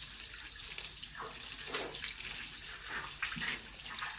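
Water running and splashing: a steady hiss with irregular surges.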